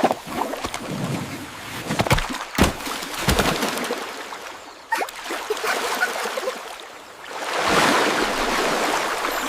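Water sloshing and splashing, with a few sharp knocks in the middle, then swelling into a rush of water about three-quarters of the way through.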